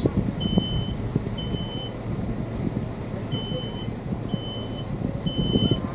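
Smoke alarm sounding its alarm pattern: groups of three short, high, even-pitched beeps about a second apart with a pause between groups, set off by smoke from the fire. A steady low background noise runs underneath.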